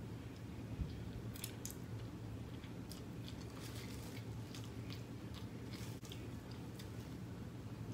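A person chewing a mouthful of takeout noodles, with faint, irregular wet mouth clicks, over a steady low hum.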